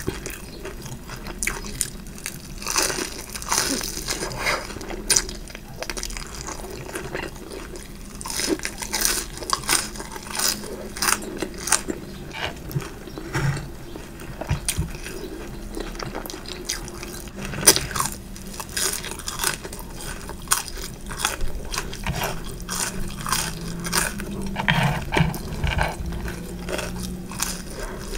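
Close-miked eating: a person biting and chewing food, with many short crunches.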